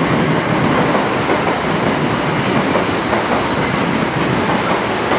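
Metro-North electric commuter train rolling through the station, wheels clattering over the rail joints in a steady loud rumble, with a faint brief wheel squeal a little past the middle.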